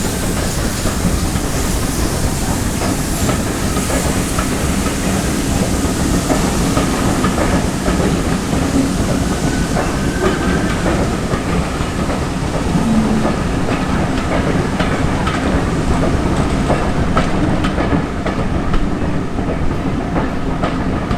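Train behind GWR 2800-class steam locomotive 2857 rolling past, its wheels clicking over the rail joints over a steady rumble. The hiss in the upper range thins out toward the end.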